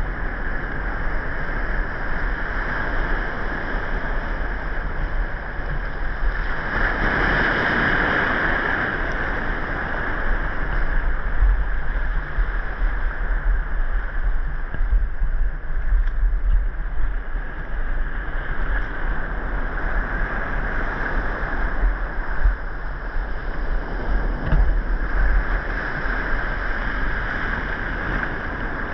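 Muffled sea ambience of moving water, a steady low rumble with a hiss that swells about seven seconds in and again near the end.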